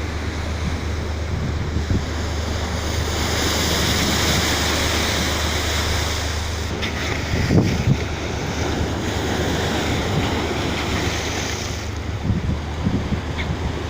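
Wind buffeting the microphone over rushing sea water, with a low steady drone underneath; a few louder knocks come about seven and a half to eight seconds in.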